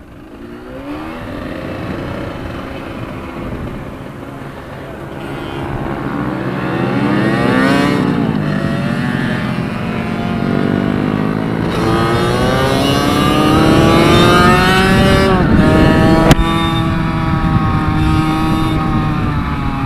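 Minibike engine accelerating hard, its pitch climbing and then dropping back several times as it shifts up through the gears, getting louder as it goes.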